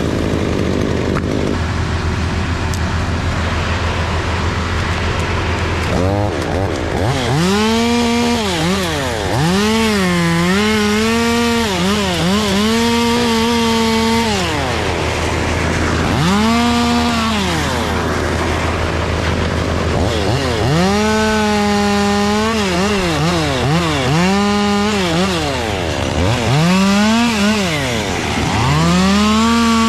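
Two-stroke chainsaw cutting beech wood. After a few lower, steadier seconds it is revved to full speed again and again, its pitch sagging while it is in the cut and dropping back between cuts.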